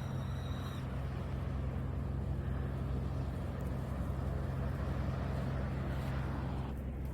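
Steady low engine drone, a constant hum with noise over it that does not rise or fall.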